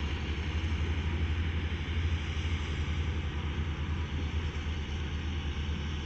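Large engine running steadily: a deep, low rumble with a fast, even pulse and a haze of mechanical noise over it.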